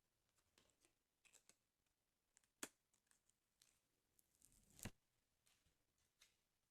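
Very faint handling of a paper sticker album: light crinkles and taps, with two sharper clicks about two and a half and five seconds in.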